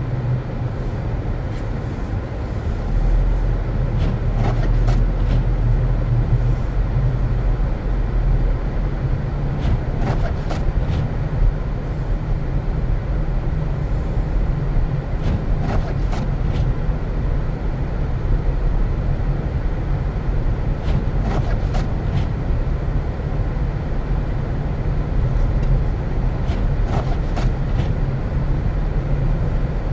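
Car driving on a snow-covered road: a steady low rumble of engine and tyres, with a few faint clicks now and then.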